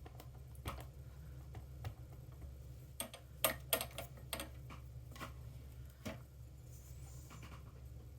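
Rubber stamp being inked on an ink pad and pressed onto cardstock: a scattered run of light taps and clicks, bunched together a few seconds in, over a low steady hum.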